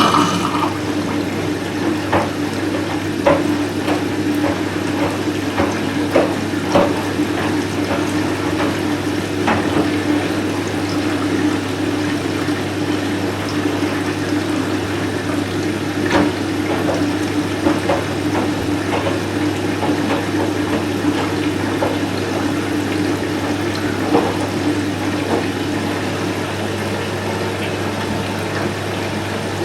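Candy Smart Inverter CSS4 37TWMB front-loading washing machine taking in water: a steady rush of water with a constant low hum, and scattered light clicks and splashes.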